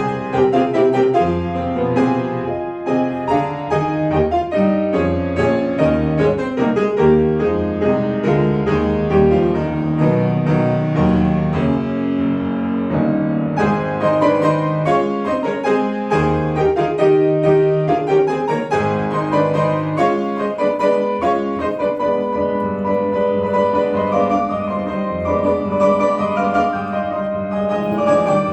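Solo piano playing classical music, a dense, fast-moving passage of many notes and chords that runs on without a break.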